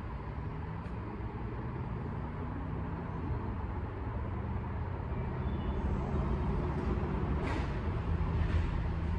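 Steady low engine and traffic rumble that slowly grows louder, with two brief hissy swishes near the end.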